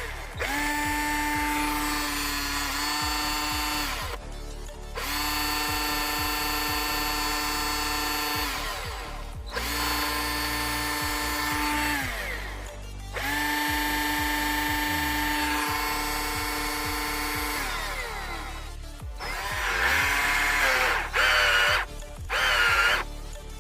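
Electric drill with its repaired motor, run in several long bursts on the trigger. Each burst is a steady whine that falls in pitch as the motor winds down on release. Near the end come louder, shorter runs at changing speed. The motor runs well, without the sparking and smoke it had before the repair.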